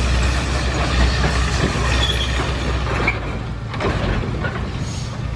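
Komatsu D20P crawler bulldozer running, with metallic clanking and short high squeaks from its tracks over a steady low engine hum that drops about three seconds in.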